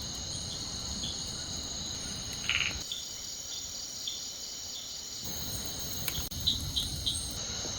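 Insects trilling in a steady, high-pitched chorus, with a few faint clicks near the end.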